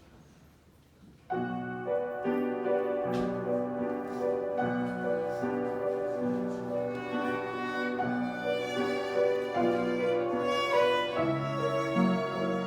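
A violin playing a melody with piano accompaniment, starting suddenly about a second in after a moment of near quiet.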